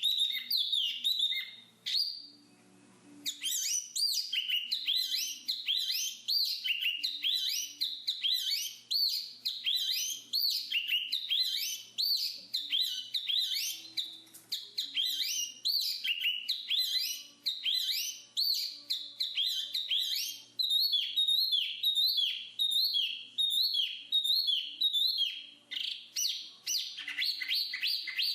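Black-capped babbler singing: a rapid, nearly unbroken stream of high chirping, whistled notes, with one short pause about two seconds in.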